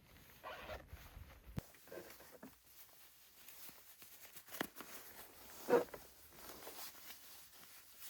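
Scattered rustling and light knocks of things being handled, with a sharper rustle a little under six seconds in.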